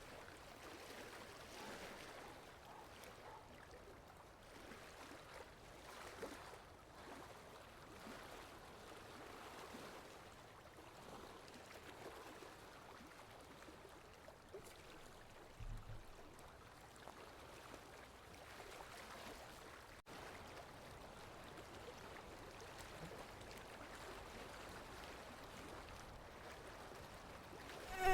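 Faint, steady background noise with no insect buzz, and a soft low thump about sixteen seconds in.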